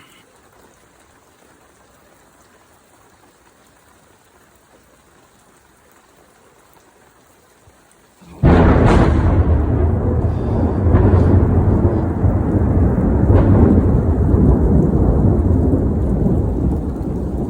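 Faint background for about eight seconds, then thunder breaks in suddenly and goes on as a long, loud, low rolling rumble.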